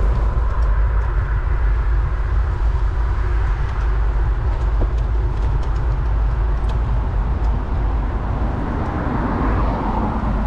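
Steady wind rumble on the camera microphone while riding a road bike, mixed with the rush of tyres on the road and a few faint clicks.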